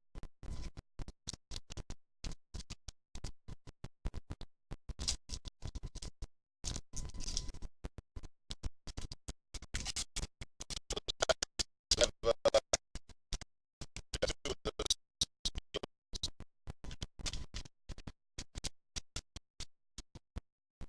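Badly broken-up audio: short fragments of sound cut by rapid dropouts into silence, making a stuttering, scratchy run of clicks and snatches.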